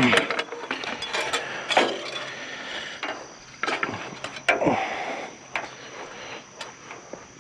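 Scrap being pulled and sorted by hand from a pile: irregular clanks, knocks and scrapes, with a short falling creak right at the start and another about four and a half seconds in.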